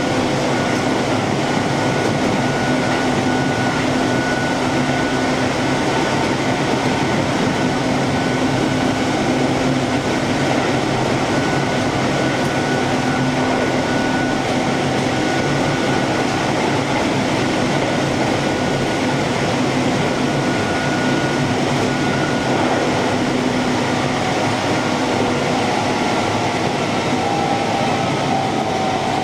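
Keihan Main Line electric train running, heard from inside the front car: steady rolling and running noise with a steady whine under it, one tone of which drops slightly near the end.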